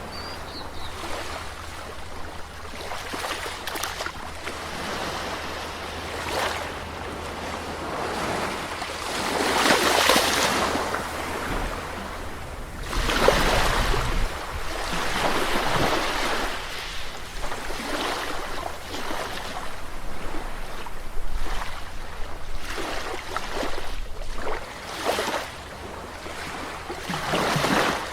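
Sea waves washing onto a shore, each surge swelling and fading every few seconds, the biggest around ten and thirteen seconds in, over a steady low rumble.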